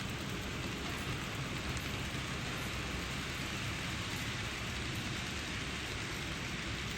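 N gauge model freight train running on the layout track: a steady rolling rumble and hiss of small wheels and motor.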